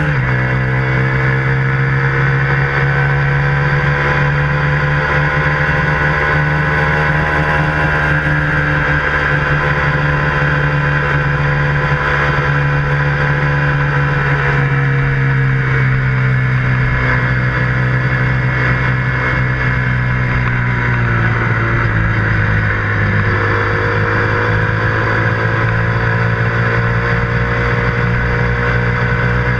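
KTM 125 Duke's single-cylinder four-stroke engine running while riding at a steady speed. The pitch eases down slowly past the middle, steps down about two-thirds through, then climbs gradually toward the end.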